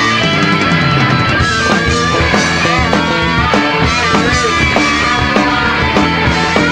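Punk rock band playing live in an instrumental passage, with no singing: electric guitars over drums keeping a steady beat.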